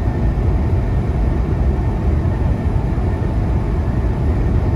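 Freightliner Cascadia semi truck driving, heard from inside the cab: a steady, low rumble of engine and road noise.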